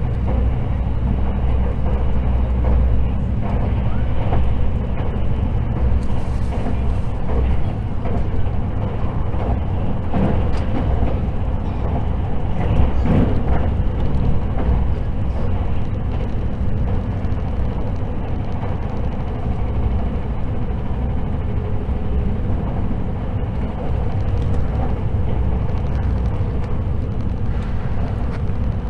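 Steady running noise heard inside the cabin of the Hakutaka limited express electric train at speed: a low rumble of wheels on rail and running gear, with a faint steady hum and an occasional brief knock.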